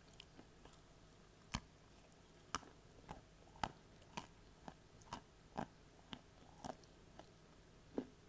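Dry edible clay being bitten and chewed right next to the microphone: about a dozen sharp, separate crunches at an uneven pace over a quiet background.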